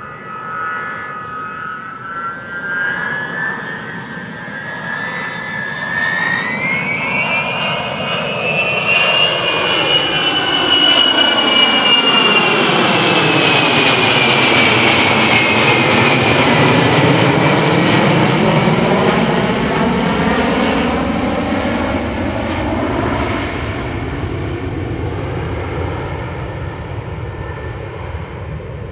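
Il-76LL flying laboratory with a test TV7-117ST turboprop engine flying past. Its engine whine rises in pitch as it approaches and grows loudest about halfway through, then drops in pitch and fades as it moves away.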